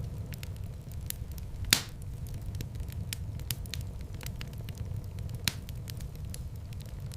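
Wood fire burning in a fireplace: a steady low rumble of flames with many small crackles, a loud pop about two seconds in and another sharp pop later on.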